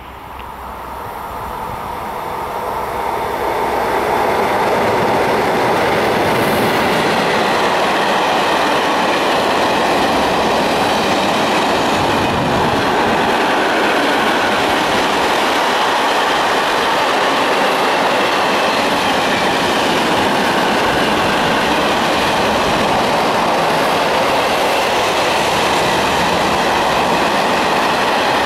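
Freight train of car-carrier wagons loaded with vans running through a station: it grows louder over the first four seconds as it arrives, then the wagons pass in a steady, loud run.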